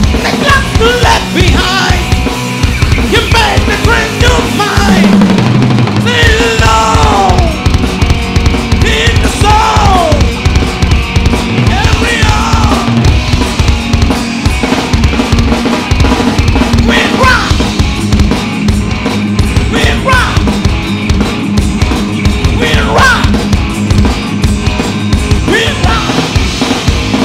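Loud rock music driven by a fast, steady drum-kit beat, with falling pitch slides over it every few seconds.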